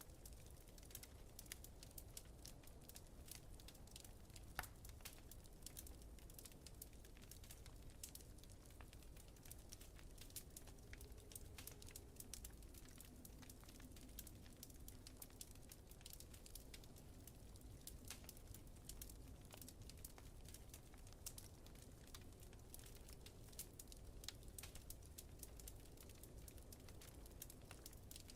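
Fireplace fire crackling quietly: a steady scatter of small sharp pops, with one louder pop about four and a half seconds in, over a low steady rumble.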